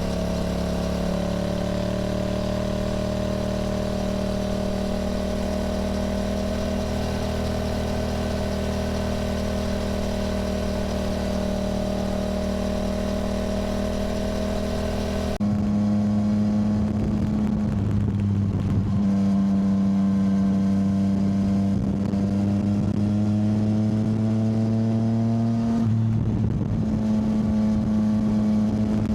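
Yamaha motorcycle engine running under way at nearly steady revs. About halfway through the sound changes abruptly, and the revs then climb slowly, dip briefly near the end, and rise again.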